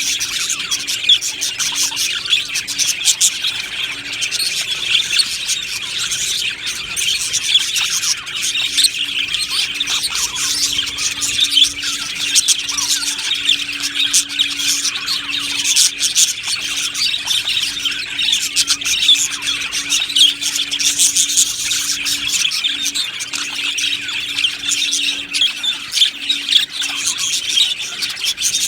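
A flock of budgerigars chattering, chirping and squawking all at once, a dense, continuous colony chorus.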